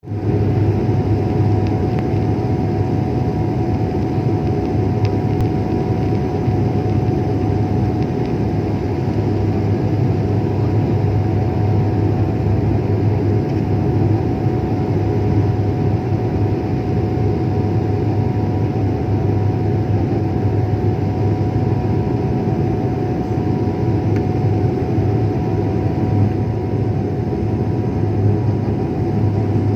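Aircraft engines running with a steady drone: a constant low hum under a steady mid-pitched tone, holding level with no rise or fall.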